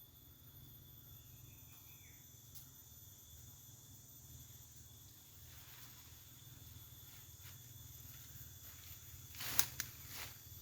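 Insects shrilling steadily in high, unchanging tones over a faint low hum of forest ambience. Near the end come a few louder, short rustling crunches.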